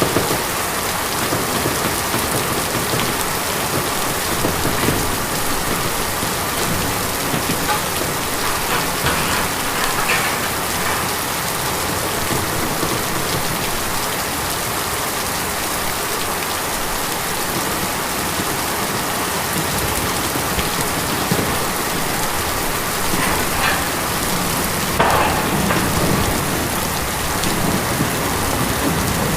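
Steady rain drumming on a tin roof, with a few heavier gusts of drops about a third of the way in and near the end.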